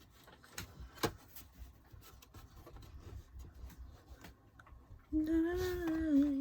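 Faint clicks and rustling of album packaging and a CD case being handled, with one sharper click about a second in. About five seconds in comes a short wavering hum, a little under two seconds long.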